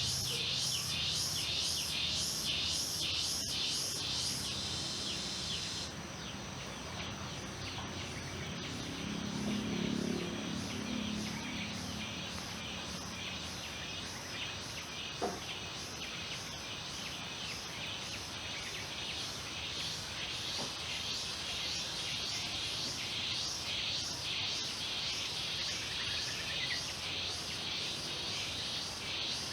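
Insects chirping in a steady rhythm, about two to three pulses a second, with birds calling now and then. A low hum underlies the first few seconds, and there is a single sharp click midway.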